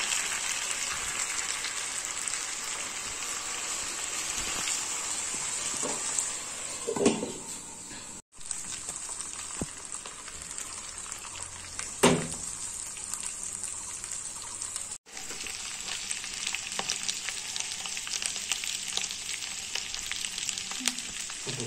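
Pork and bamboo shoot sizzling as they fry in a wok, a steady hiss with two louder knocks about 7 and 12 seconds in. The sizzle cuts out briefly twice.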